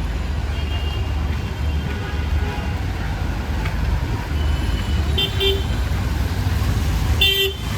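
Street traffic with vehicle engines running as a steady low rumble, and short vehicle horn toots about five seconds in and again near the end.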